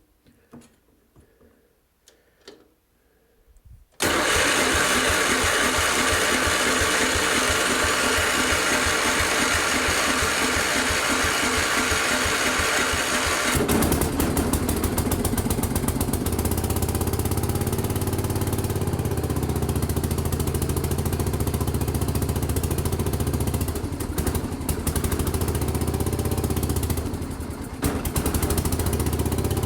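A few small clicks, then about four seconds in the Case 224 garden tractor's engine starts up after sitting for a couple of weeks. Its sound changes about ten seconds later, settling into a lower, steady running note.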